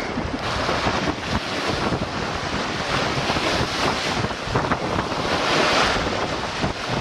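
Rushing wind and water noise aboard a sailing yacht at sea, swelling and easing twice.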